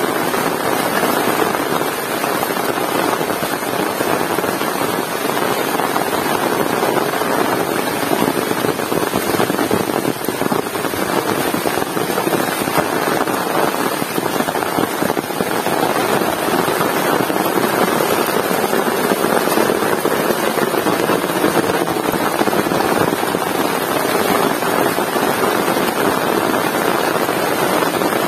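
Heavy rain falling steadily, a loud, even downpour hiss.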